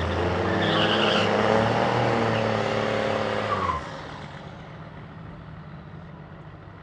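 1940s Fargo truck's engine running hard under full throttle on a drag-strip pass, loud and steady, then dropping off abruptly about four seconds in to a much quieter, distant drone.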